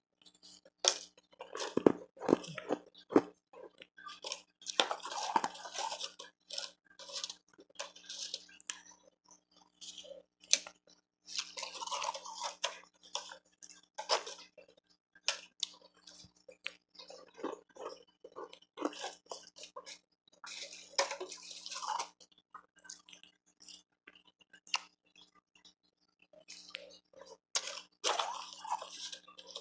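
Close-up chewing and crunching of refrozen powdery ice and hard ice pieces, in repeated bouts of sharp crackling crunches every couple of seconds.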